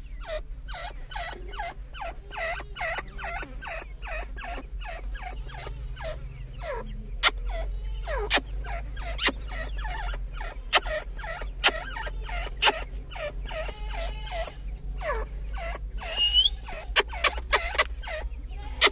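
Grey francolins (Dakhni teetar) calling in a rapid run of short, sharp notes, about four a second, over a steady low hum. Loud sharp clicks cut in now and then, several in quick succession near the end.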